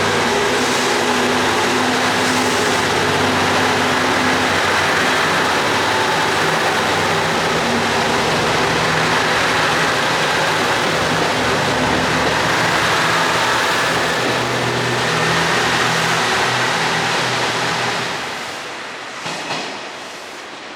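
JR Shikoku 2700 series diesel train pulling out, its engines running hard under load as it accelerates, with engine tones that shift as it goes. Near the end the sound fades as the train moves away.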